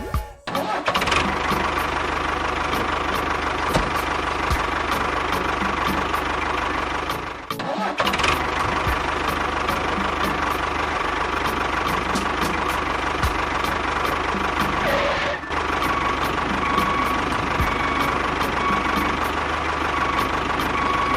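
A small engine running steadily with a regular ticking, broken by brief cuts about a third of a second, seven and a half and fifteen seconds in.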